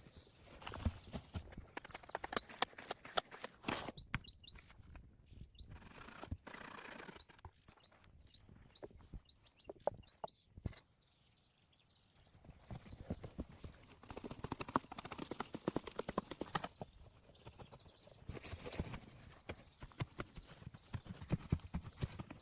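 An irregular series of sharp knocks and taps in clusters, with a short lull about halfway through.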